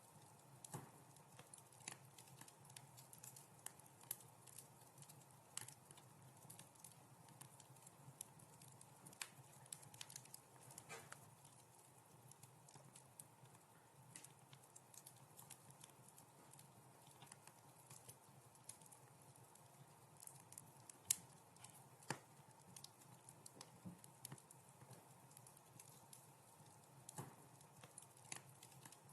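Wood fire crackling softly in a fireplace: irregular small pops and snaps, with one sharper, louder pop about two-thirds of the way through.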